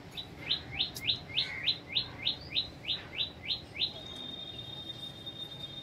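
A bird calling: a run of about a dozen quick descending notes, roughly three a second, followed by a steady high tone held for about two seconds.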